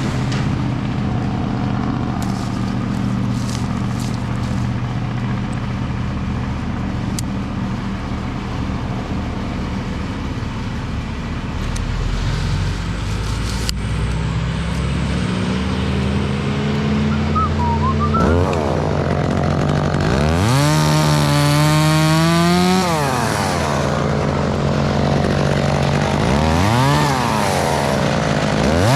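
Chainsaw engine running steadily at idle, then revved up and back down several times in the second half.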